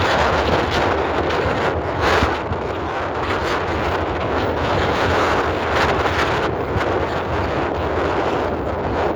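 Wind buffeting the microphone: a loud, gusting rush with a heavy low rumble.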